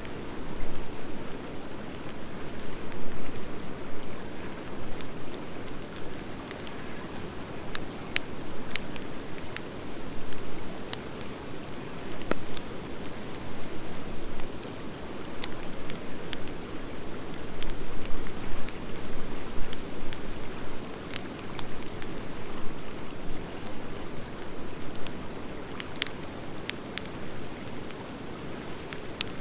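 Wood fire of driftwood and dry hardwood logs burning: a steady low rush of flame with scattered sharp crackles and pops, the pops coming from the dry hardwood.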